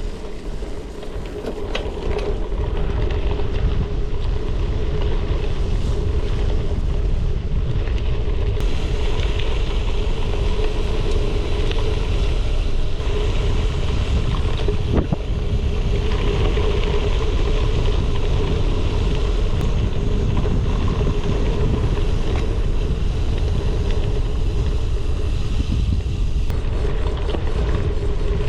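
Wind rushing over an action-camera microphone, with tyre noise from a gravel bike rolling at speed. It builds over the first few seconds, then holds steady with a constant hum under it.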